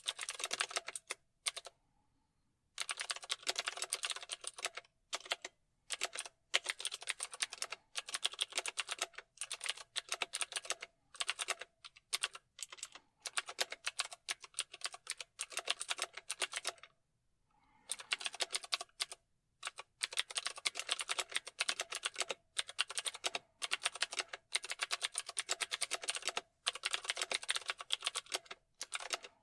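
Fast typing on a computer keyboard: rapid runs of key clicks broken by short pauses, with longer breaks about two seconds in and again around seventeen seconds in.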